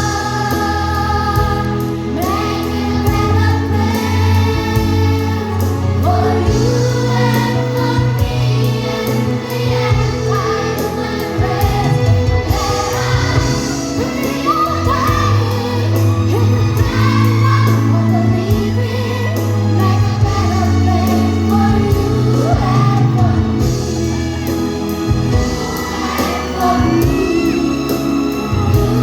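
Children's choir singing with instrumental accompaniment over a steady bass line.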